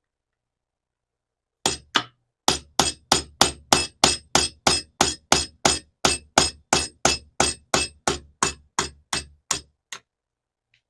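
Hammer striking metal about two dozen times in a steady rhythm of about three blows a second, each blow ringing briefly, then stopping.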